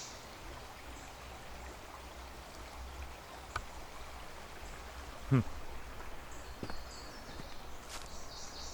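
Outdoor trail ambience: a steady low rumble and hiss with no clear single source. About five seconds in comes a brief falling voice-like sound, and faint high trilling notes follow soon after.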